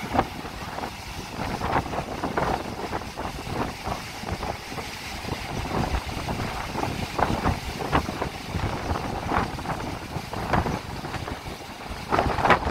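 Strong typhoon wind buffeting the microphone in uneven gusts, over the wash of heavy surf.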